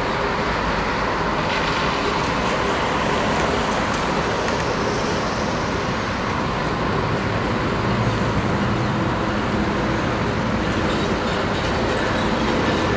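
Slow freight train rolling by, its cars running on the rails and its diesel-electric switching locomotives humming, mixed with cars passing on the road. The low locomotive hum comes up about two-thirds of the way in.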